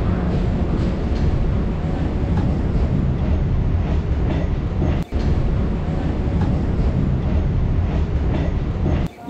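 Suburban electric train running, its wheels on the rails making a steady loud noise heard through the open carriage doorway, with a brief break about five seconds in.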